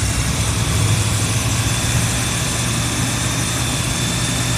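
Car engine idling steadily, a low even hum; the owner takes it for an engine with bad oil control rings.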